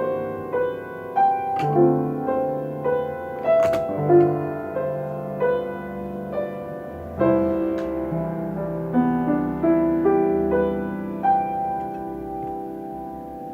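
Solo piano playing a piece of many overlapping notes and chords, settling near the end on a held chord that slowly dies away.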